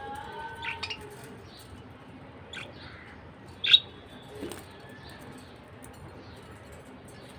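Pet budgerigar giving a few short, scattered chirps. The loudest comes a little past the middle.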